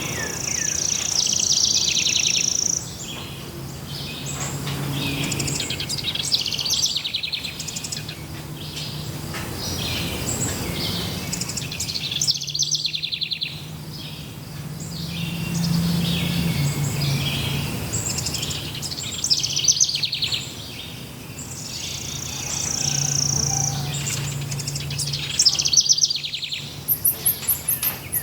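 Several birds singing and chirping at once, many short high calls overlapping, over a low steady hum that fades in and out. Near the end a rapid series of very high ticks joins in.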